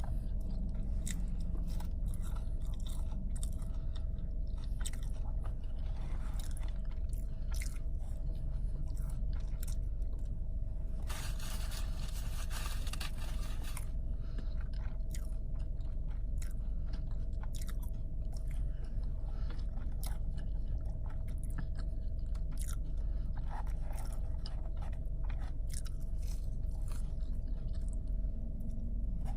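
Close-up chewing and biting of food, with many small crunches and wet mouth clicks, over a steady low hum with a faint constant tone. About halfway there are a few seconds of hiss.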